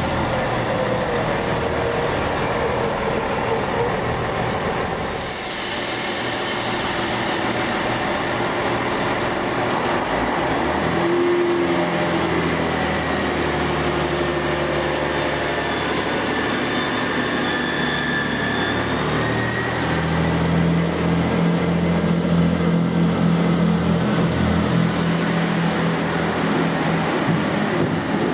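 A diesel train running. Its engine note comes in about a third of the way through and steps up to a stronger, steady drone about two-thirds through, with a faint high whine above it.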